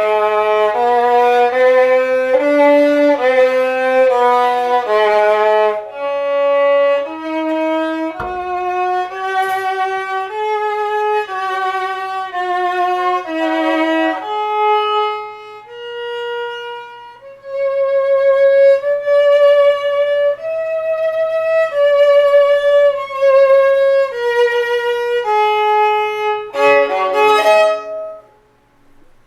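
Solo violin being bowed, playing a slow scale-like passage of separate held notes that step up and down, ending in a quick flurry of notes about a second before it stops.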